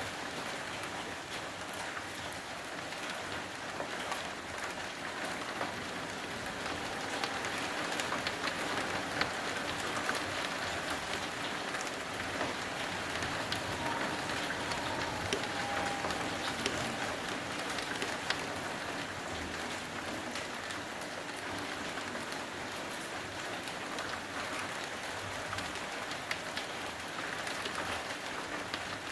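Steady heavy rain pouring down on a street and apartment buildings: an even hiss with many close drops ticking. A faint, brief whistle-like tone sounds twice near the middle.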